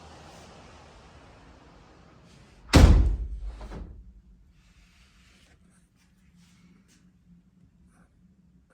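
Storm wind and surf noise fading, then a door slams shut about three seconds in with one loud thud that dies away over about a second. After it only a few faint small clicks are heard.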